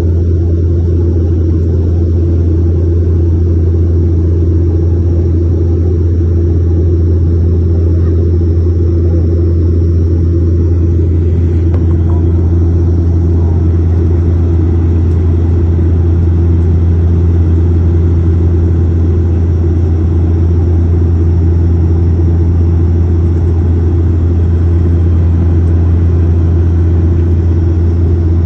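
Airliner cabin noise heard from inside the plane: the engines and airflow make a loud, steady drone, a deep constant hum with a few steady tones and a rushing hiss above it. The hiss grows slightly fuller about twelve seconds in.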